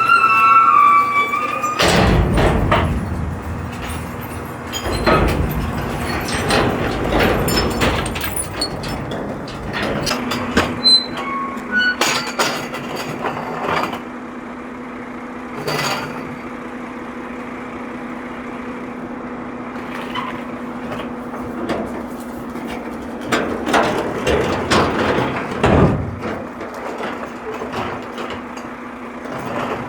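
Garbage truck at work on a recycling collection: a run of clattering bangs and knocks for the first half, then a steady hum with a few more bangs later.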